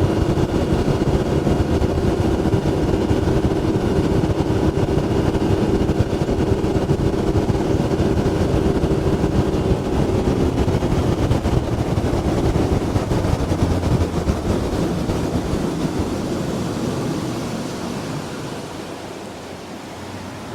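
Boat motor running with water and wind rushing past. The motor's steady hum fades out about halfway through, and the whole sound drops off over the last few seconds.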